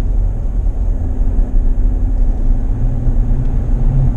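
Car driving along a road, heard from inside: a steady low road rumble with an even engine drone.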